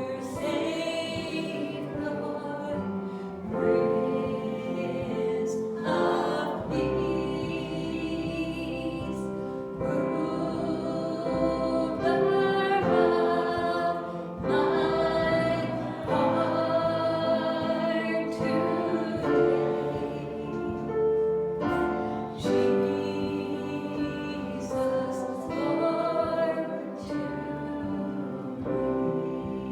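A choir singing a gospel song in sustained, held phrases.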